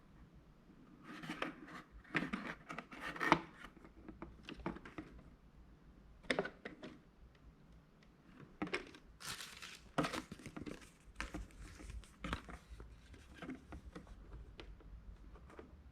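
Irregular rustling, crinkling and light clicks and knocks of things being handled, in uneven bursts.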